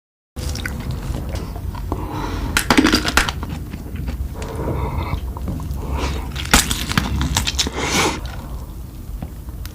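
Close-miked eating: crunchy food being bitten and chewed, with several sharp crunches over a low steady hum.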